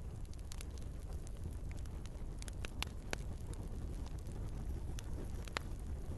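Wood log fire in a fireplace crackling: a steady low rumble of burning with scattered sharp pops, a couple of louder ones about three seconds in and another near the end.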